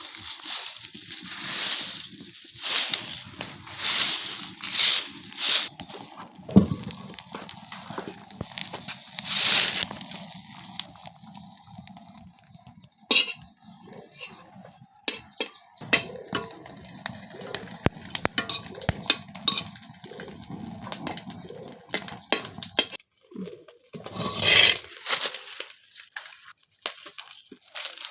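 Food being prepared by hand, with several second-long bursts of hissing and rustling and many scattered clicks and knocks, like utensils against pots.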